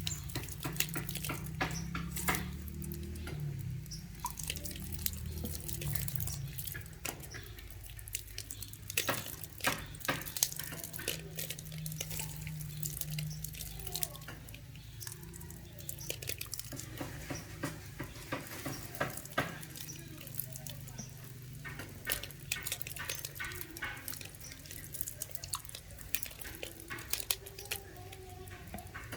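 Water splashing and dripping as young green pigeons are bathed with bottled water, with many irregular sharp patters and drips over a steady low hum.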